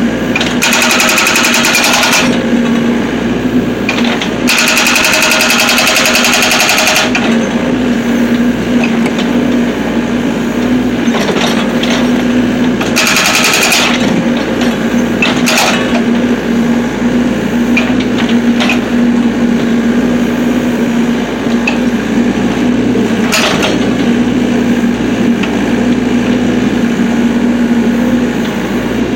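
Excavator engine running steadily while its hydraulic breaker hammers in three bursts of rapid blows, the longest about two and a half seconds, splitting firewood. A few single sharp knocks follow in the second half.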